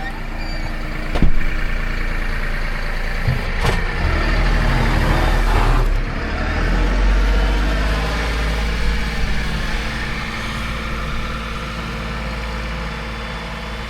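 A vehicle engine running steadily, with a sharp knock about a second in and another near four seconds in.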